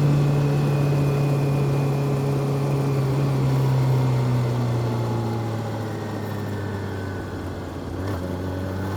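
Honda CB400SF's inline-four engine and exhaust, its note falling steadily as the revs drop off, with a slight pick-up near the end.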